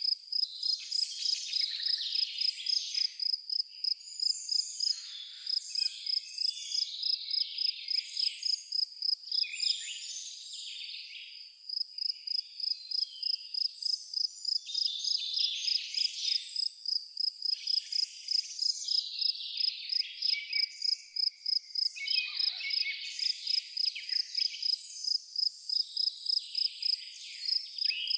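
A cricket chirping in a steady high pulsing rhythm, a few chirps a second, with a short break near the middle, while several birds sing in varied high warbling phrases.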